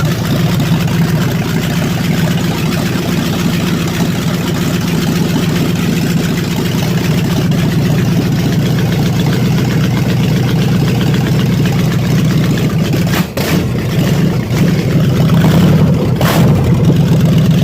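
Freshly built car engine running loud and steady just after starting, with a brief dip about thirteen seconds in and a short rise in revs soon after.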